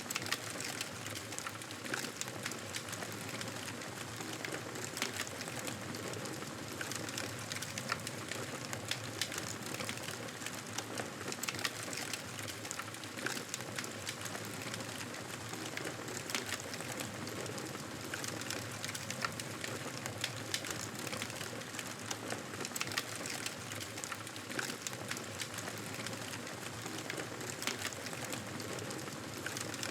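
Wood fire crackling in a fireplace: a steady hiss with many small, irregular sharp pops.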